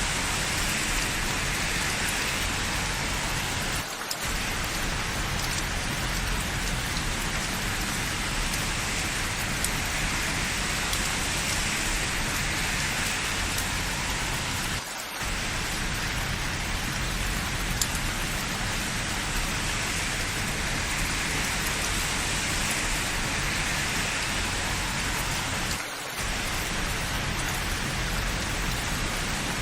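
Steady rain falling and splashing on hard surfaces, an even hiss with no thunder. The level dips briefly three times, about every eleven seconds.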